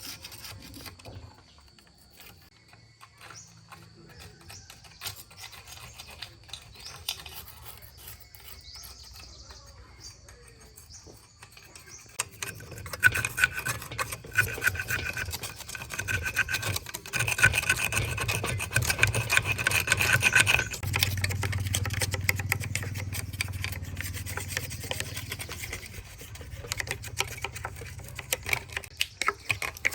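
Rubbing and scraping of tools on metal: faint at first, then louder and busier from about twelve seconds in, with a steady high tone running through it for several seconds.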